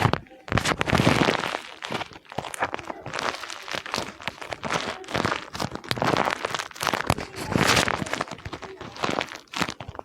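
Paper crinkling and crackling in repeated bursts as a handmade paper squishy is handled and crumpled.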